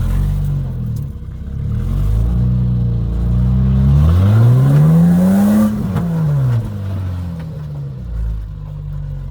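Four-wheel-drive's engine working steadily off-road, then revving up hard about four seconds in, peaking a second and a half later and dropping back.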